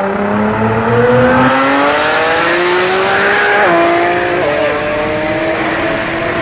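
Nissan GT-R's twin-turbo V6 at full throttle, its pitch climbing steadily through a gear. It drops sharply at an upshift about three and a half seconds in, climbs again and shifts once more about a second later.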